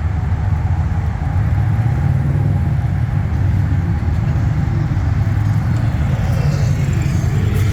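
Motorcycle engines running with a steady, low, pulsing rumble.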